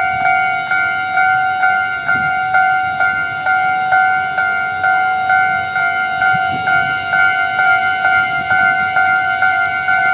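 Railway level crossing warning bell ringing, an electronic chime of two steady tones pulsing about twice a second.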